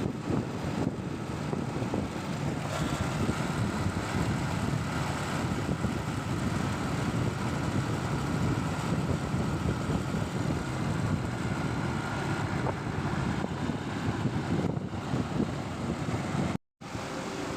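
Steady vehicle and road noise with wind rumbling over the microphone, as heard while riding a bike through traffic. The sound cuts out completely for a moment near the end.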